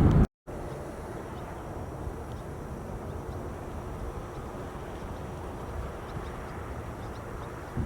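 A loud jet engine cuts off sharply a fraction of a second in. It is followed by a steady low rumble of distant airliner jet engines with outdoor background noise, and a few faint high chirps.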